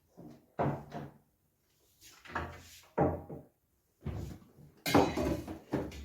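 Several separate knocks and clatters of kitchen things being handled, about one a second, the loudest a cluster near the end.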